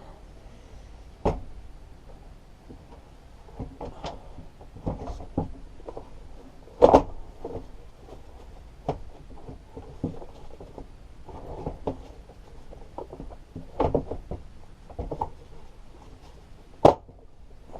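Irregular clicks and knocks of hands working a lawnmower drive cable and its fittings back into place, with the loudest knocks about seven seconds in and near the end.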